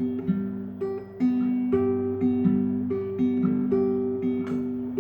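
Acoustic guitar picking a slow instrumental introduction to a song, with notes ringing over one another.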